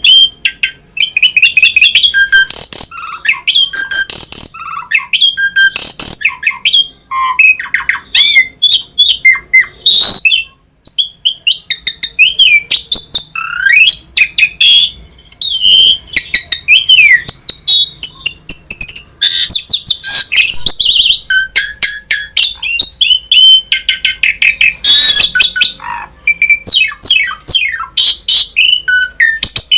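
A pied starling (jalak suren) singing continuously in a loud, varied stream of whistles, chatters and harsh squawky notes, with a short pause about ten seconds in. This is full, energetic song of the kind kept birds are played to prompt them to sing.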